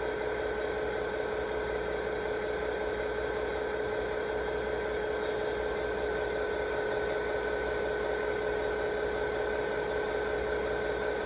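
A steady hum with several fixed tones over a low haze, unchanging throughout, with one brief high tick about five seconds in.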